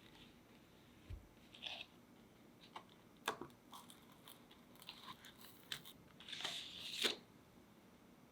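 Scattered light clicks and taps from handling utensils and cake parts during assembly, with a short crinkly rustle about six to seven seconds in.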